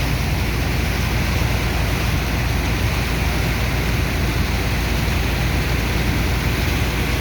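Sand dredger's engine and water pump running steadily, with a rushing of pumped water and sand.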